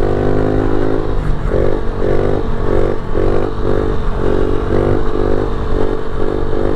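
Small single-cylinder pit bike engine running under the rider, its note swelling and dropping in quick repeated pulses, about twice a second, while cruising.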